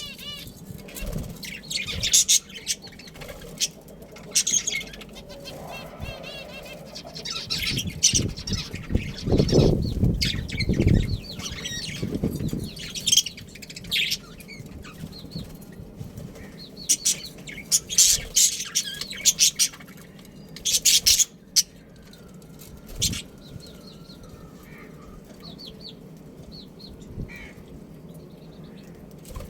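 Birds repeatedly flapping their wings in short flurries, with scattered chirps and calls in between.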